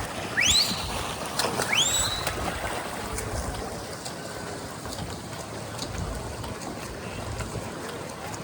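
Steady hubbub of a swim meet: water churned by swimmers racing freestyle, under crowd noise. Early on, two short rising whistles from spectators stand out above it.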